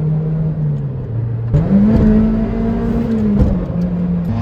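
A motor vehicle engine running, its pitch rising about a second and a half in, holding, then dropping back near the end.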